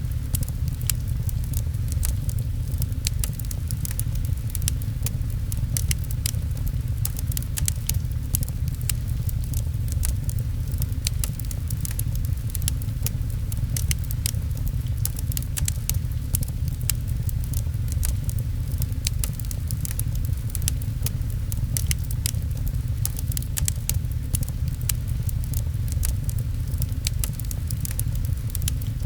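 Wood fire crackling with many irregular sharp pops, over a steady low rumble of rain.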